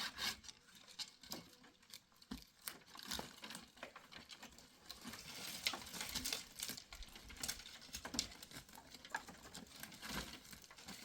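Irregular light clicks, taps and rustling, with a few sharper knocks scattered through: hands handling small wooden pieces and materials rather than sawing.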